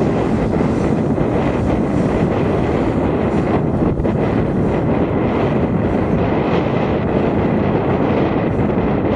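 Wind rushing over the microphone of a camera on a moving bike: a loud, steady rumbling noise.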